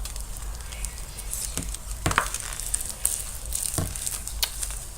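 Foam-bead slime being stirred and squished as activator is mixed in: scattered soft crackles and squelches, a few louder ones about two seconds in and near four seconds in.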